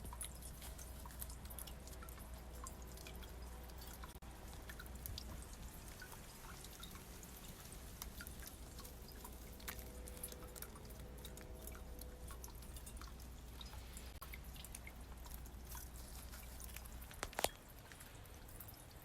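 Faint water dripping in irregular ticks. A steady low rumble under it stops with one sharp click near the end.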